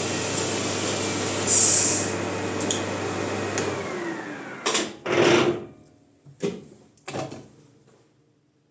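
Metal lathe running with a bicycle disc brake mounted on it. The brake gives a brief high squeal about one and a half seconds in, and the machine winds down in falling pitch a little before halfway. A few separate metallic clunks and knocks follow.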